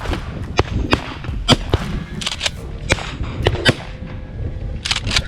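Shotguns firing at flushing rooster pheasants: a scattered run of sharp reports, some louder and some fainter.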